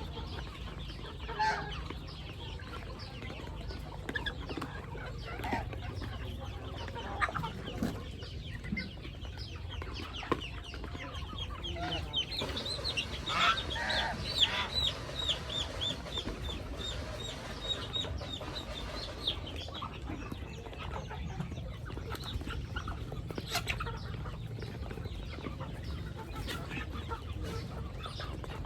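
Chickens clucking on and off, with a run of quick, high repeated calls in the middle, over a steady low rumble.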